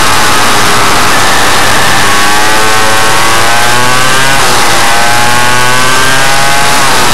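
Suzuki RM85 two-stroke engine accelerating hard and loud. Its pitch climbs, falls sharply at an upshift about two-thirds of the way through, climbs again and falls at a second shift at the end.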